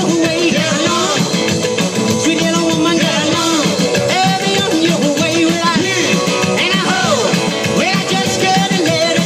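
A live band playing an upbeat rock and roll number, loud and steady throughout.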